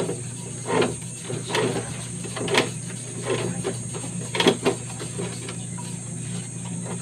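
Electric motor running steadily, turning a brake drum in a homemade lathe setup, with a low hum and a thin high whine. Short scraping knocks come about six times, irregularly spaced, as the drum is worked.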